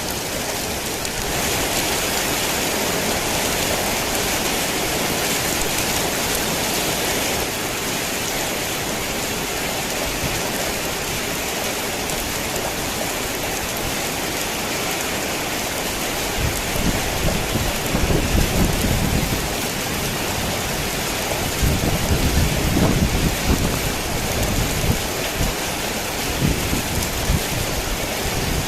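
Heavy rain falling on a tin roof in a steady hiss, with thunder rumbling low in two long rolls in the second half.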